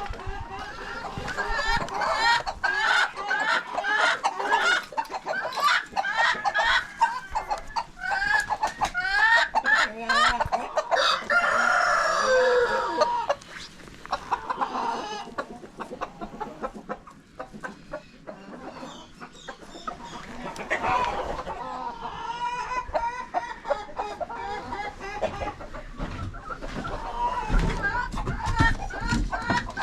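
Domestic chickens clucking continuously, with a rooster crowing about halfway through.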